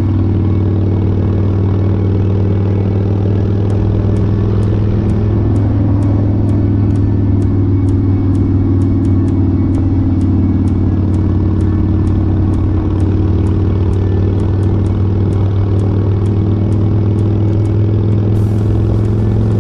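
Kawasaki Vulcan motorcycle engine running steadily at cruising speed, with road and wind noise on a bike-mounted action camera. Faint ticking about twice a second comes in a few seconds in.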